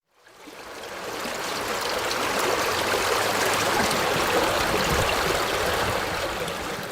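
Stream water flowing and rushing steadily, fading in over the first second or so.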